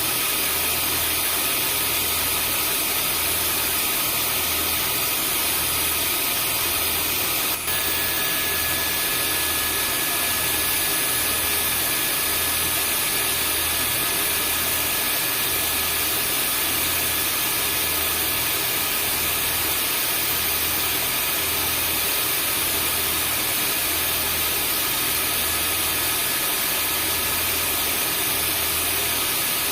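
Vacuum cleaner motor running steadily: a constant rush of air with high whines over a slow, pulsing low hum. A brief dropout comes about seven and a half seconds in, after which an extra whistle tone holds.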